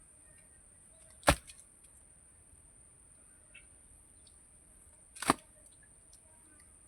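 Two sharp knocks about four seconds apart, over a steady high-pitched insect drone.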